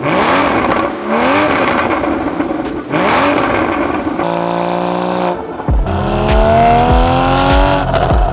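Porsche GT4 flat-six engine accelerating: its pitch rises in several short pulls, holds steady for about a second, then climbs in one long rising pull. From about halfway in, background music with a steady beat runs underneath.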